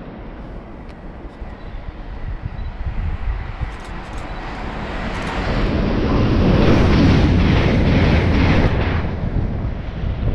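TransPennine Express Class 802 bi-mode train, unit 802204, approaching and passing through the station at speed. The noise builds over several seconds to a peak past the middle, then eases off. Wind rumbles on the microphone throughout.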